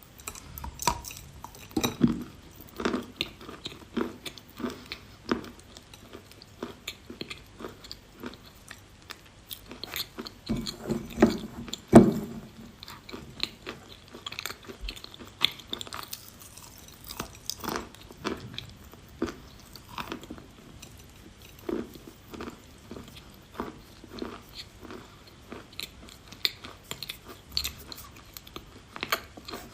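A person biting and chewing pieces of dry chalk close to the microphone, with sharp crackling crunches all through. Heavier bites come about two seconds in and again around ten to twelve seconds.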